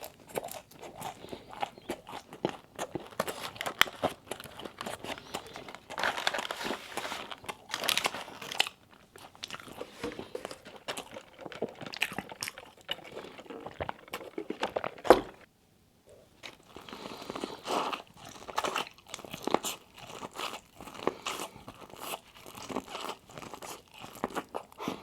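Close-up chewing and crunching of Wingstop fried food, with irregular crisp bites and wet mouth sounds. One bite about two-thirds of the way through is louder and is followed by a brief pause.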